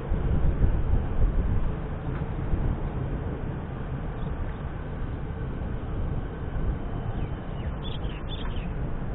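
Container wagons of a freight train rolling past, a steady low rumble of wheels on rail, a little louder in the first couple of seconds. A few short bird chirps near the end.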